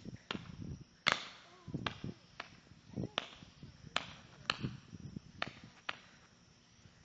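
Fireworks going off: a quick, irregular series of about ten sharp cracks and pops over some six seconds, then they stop.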